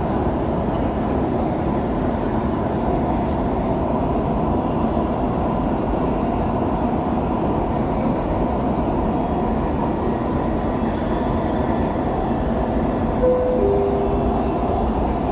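Dubai Metro train in motion, heard from inside the carriage: a steady rumble and hiss of the running train. A short two-note falling tone sounds near the end.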